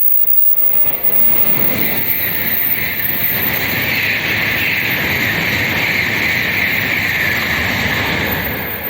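Tokaido Shinkansen high-speed train passing at speed without stopping: a loud rushing roar that builds over the first couple of seconds, holds steady, and eases off near the end.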